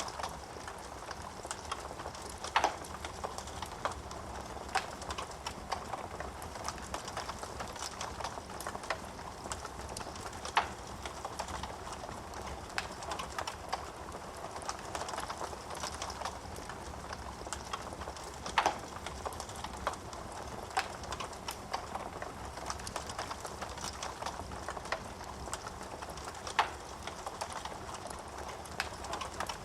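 Wood fire crackling in a fireplace: a steady hiss of flames with frequent small snaps, and a louder pop about every eight seconds.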